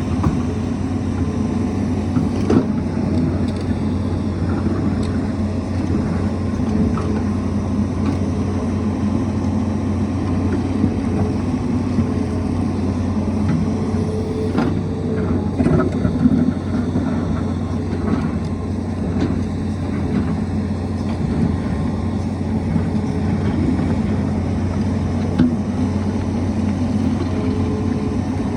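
Tata Hitachi excavator's diesel engine running steadily as it digs, with a few sharp knocks scattered through.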